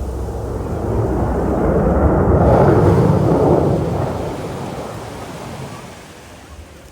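F/A-18F Super Hornet jet passing by: the engine noise swells for a couple of seconds, peaks about three seconds in, then fades away.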